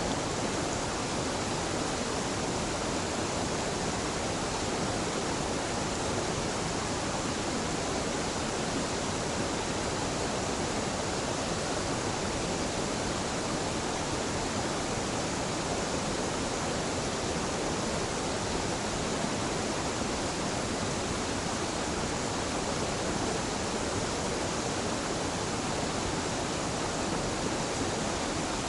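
A gentle mountain waterfall pouring steadily, an even rush of falling water that does not change.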